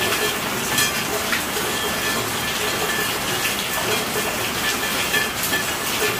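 Steady rainfall: a dense, even hiss of falling rain, with a few louder drop hits here and there.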